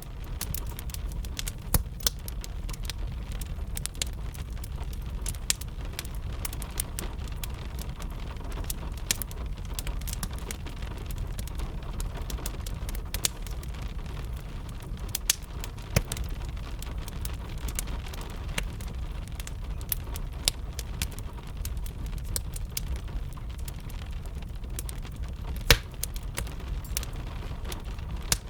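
Wood fire crackling with a steady run of sharp pops and snaps, a few of them louder, over the even patter of rain and a low steady rumble.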